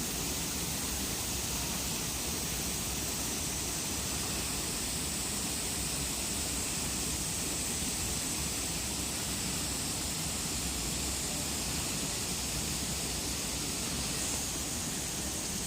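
Narutaki waterfall: a steady rush of falling water that holds level throughout.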